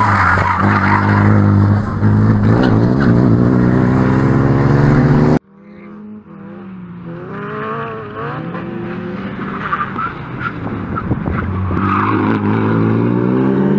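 Renault Mégane RS turbocharged four-cylinder engine running hard at high revs through a tight corner. About five seconds in, the sound cuts off suddenly and comes back quieter, the engine revving up and down as it approaches and growing louder. Short tyre squeals come near the end.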